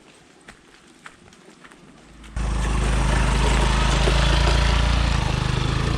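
Faint footsteps on a path. A little over two seconds in, this switches suddenly to loud, steady wind buffeting the microphone, with a heavy low rumble.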